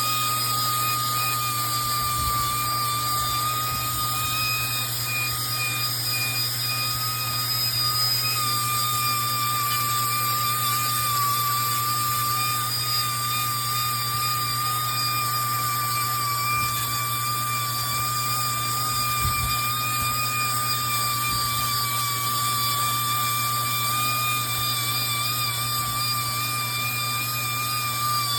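A motor-driven machine running steadily: a constant high-pitched whine with a slight waver, over a steady low hum.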